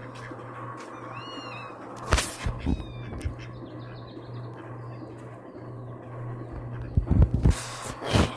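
A cat meowing a few short, high-pitched times, mixed with loud knocks and rustling thumps, one just after two seconds and a cluster near the end.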